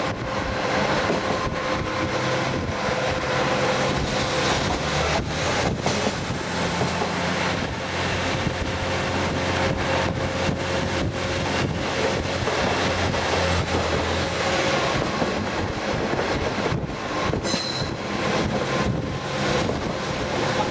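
Diesel trolley train running along the track, heard from on board: steady engine and wheel rumble with scattered rail-joint clicks and a thin, steady wheel squeal. A short high-pitched tone sounds once, about three-quarters of the way through.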